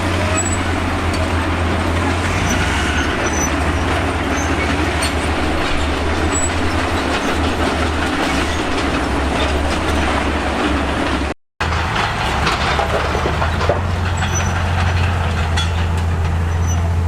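Crawler bulldozer at work: its diesel engine running with a steady low drone under a constant clatter of steel tracks and scraping rock. The sound drops out for an instant about two-thirds of the way through.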